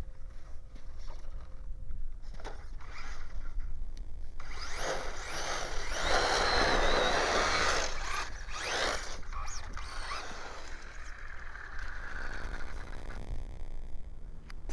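Electric Traxxas RC car driving hard through snow: a rushing sound with a motor whine that rises and falls, loudest from about a third of the way in until about two-thirds through, then fading.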